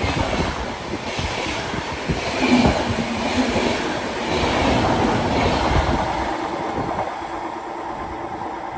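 A train rolling past on the track, its wheels knocking irregularly over rail joints under a steady rumble, slowly fading away over the last few seconds.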